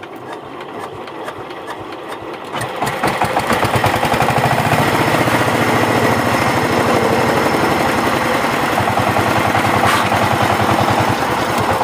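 Old diesel engine being hand-cranked by two people: the beats build and quicken for about three seconds until it fires, then it runs steadily with a rapid diesel knock.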